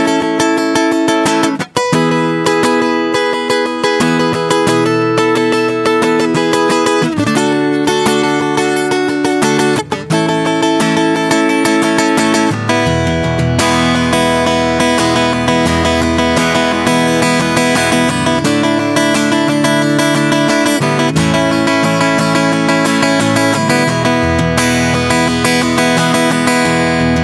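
Acoustic guitar played softly, picking and strumming chords, with a fuller bass line coming in about halfway through.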